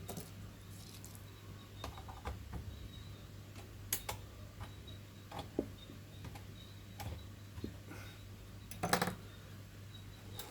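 Irregular small clicks and taps of tools and parts being handled on a boat clock under repair, with a louder cluster near the end, over a low steady hum.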